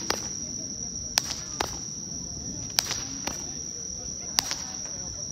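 Small toy fireworks firing in succession, about every one and a half seconds: each a sharp pop followed a fraction of a second later by a second, weaker crack. Crickets chirp steadily underneath.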